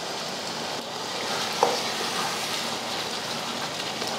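Chicken masala sizzling in a large pot while a spatula stirs through it, with a single sharp knock about a second and a half in.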